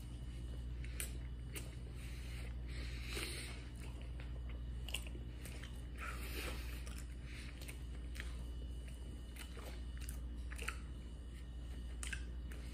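A person chewing a mouthful of burger close to the microphone, with scattered soft mouth clicks and a couple of louder smacks about three and six seconds in, over a steady low hum.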